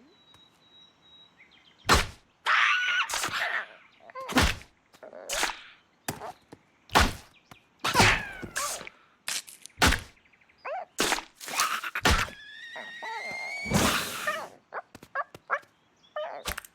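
Cartoon slapstick sound effects: a string of sharp thuds and whacks with short swishes and squeaky sliding tones between them, including a rising squeal about three quarters of the way through.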